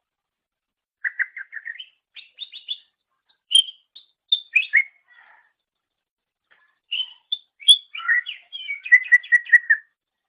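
Greater green leafbird (cucak ijo) singing in two bursts of rapid chattering and whistled notes. The second burst starts about seven seconds in and ends in a fast run of evenly repeated notes.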